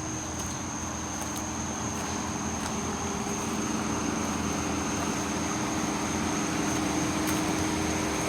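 Steady vehicle engine hum, growing gradually louder, with crickets trilling in a steady high tone.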